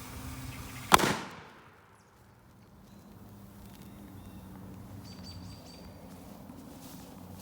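A single sharp bang about a second in, fading over about half a second: sodium metal exploding as it reacts violently with water.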